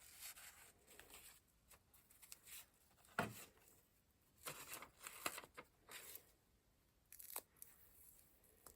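Paper rustling and scraping in short bursts as journal pages and paper pieces are handled, with one sharp tap about three seconds in.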